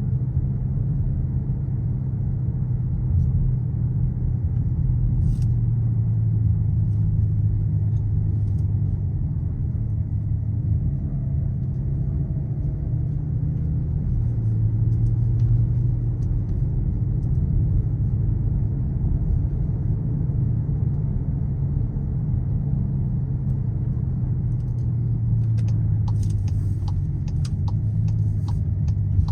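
Skoda Kodiaq RS's 2.0 TSI four-cylinder turbo petrol engine and exhaust droning steadily while driving, the pitch drifting slightly up and down. A few light ticks come near the end.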